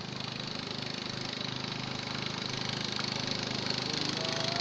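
A small engine running steadily at a constant speed, growing slightly louder over a few seconds.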